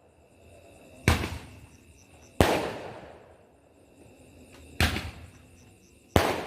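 Fireworks going off: four loud, sharp bangs a second or two apart, each trailing off in a fading rumble.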